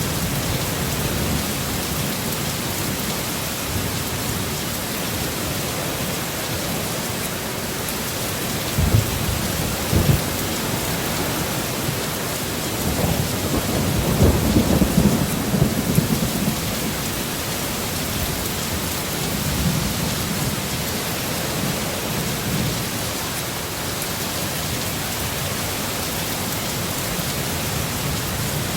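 Heavy rain pouring steadily, with short low thunder rumbles about nine and ten seconds in and a longer roll of thunder in the middle.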